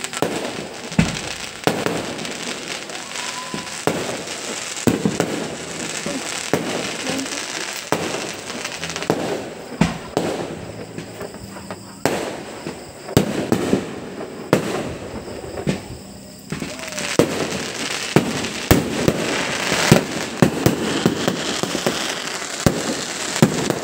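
Aerial fireworks bursting: a run of sharp bangs and crackles, coming thick and fast in the last several seconds.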